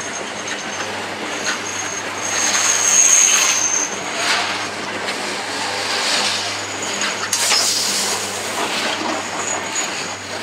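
Train moving along the rails, with a thin, high wheel squeal that comes and goes, loudest about three seconds in, over rolling noise and a few sharp knocks.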